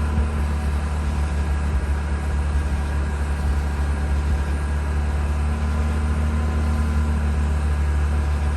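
Mazda RX-8's two-rotor Renesis rotary engine running steadily with a strong low hum, shortly after being deflooded and started.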